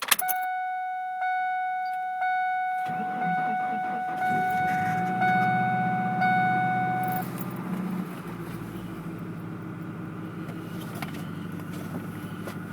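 Dashboard warning chime of a 1998 Ford Ranger dinging about once a second as the key is turned on. About three seconds in, the engine starts readily despite the deep cold and settles into a steady idle. The chime stops about seven seconds in.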